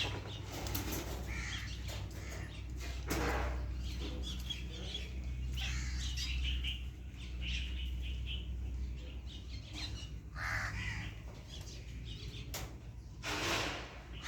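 Crows cawing several times, with smaller birds chirping in between, over a steady low hum.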